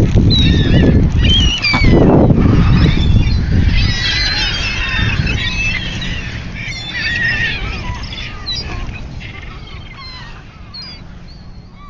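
A flock of gulls and geese calling over one another, with a dense cluster of calls about four seconds in that then thins out. Wind rumbles on the microphone for the first couple of seconds.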